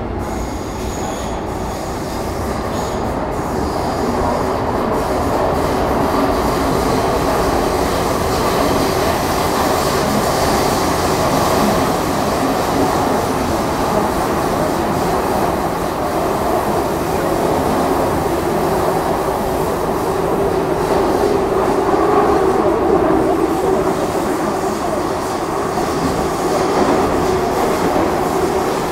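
Interior running noise of an MTR Metro Cammell M-Train (CT-Stock C243) with GEC GTO chopper traction: a steady roar of wheels and rails with a faint motor hum under it, getting louder over the first few seconds and then holding, as the train runs through the cross-harbour tunnel.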